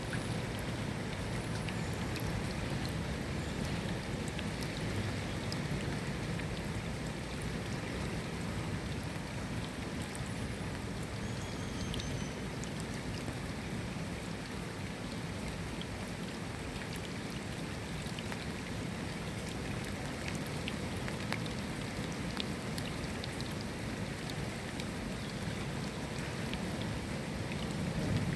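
Steady rain falling, with scattered drop ticks. A low rumble of thunder begins to build near the end.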